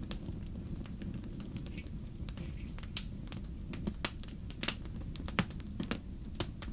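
Wood fire crackling in a fireplace: irregular sharp pops and snaps over a steady low rumble, with a few louder pops in the second half.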